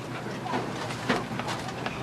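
Pickup truck running at low speed, with a steady low hum and scattered clicks and rattles, and a short voice sound about a second in.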